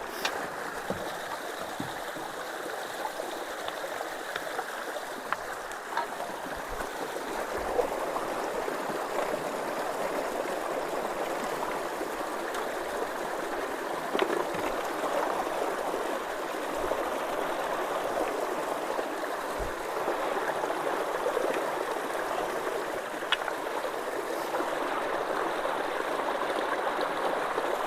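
Creek water running steadily through a culvert, growing a little louder about eight seconds in, with a few faint knocks.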